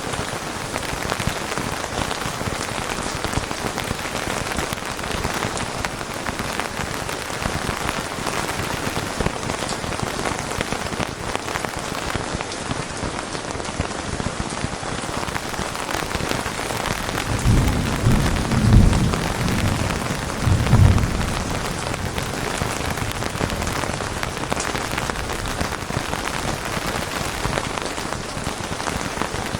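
Steady rain falling on a surface, with a low roll of thunder about two-thirds of the way through that swells twice before fading.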